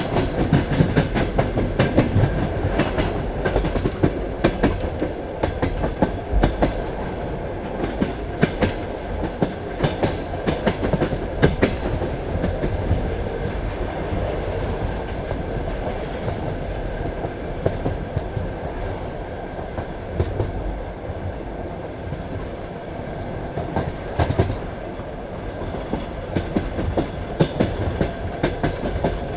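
Passenger train carriage wheels clicking over rail joints at running speed over a steady rumble, heard from inside the carriage. The clicks come thick for the first dozen seconds, thin out in the middle, and pick up again near the end.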